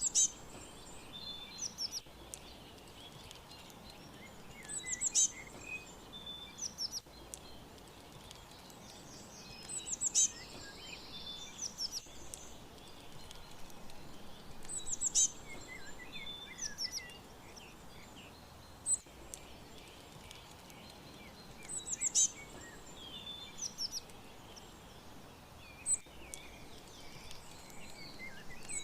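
Small birds chirping and trilling in short high-pitched bursts that come in clusters every few seconds, over a steady faint background hiss.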